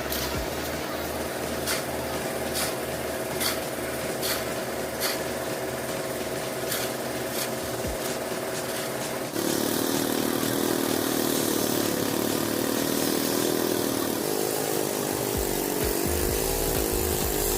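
Engine-driven concrete-casting machinery running: a steady engine with a regular clatter about once a second, then, after a sudden change about nine seconds in, a louder engine whose pitch wavers.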